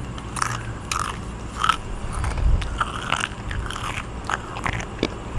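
A denture wearer biting and chewing food close to the microphone: irregular, wet, clicky mouth sounds.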